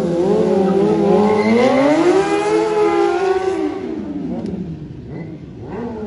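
Motorcycle engine revved up and held high, then dropping back about four seconds in, followed by quieter, shorter revs near the end.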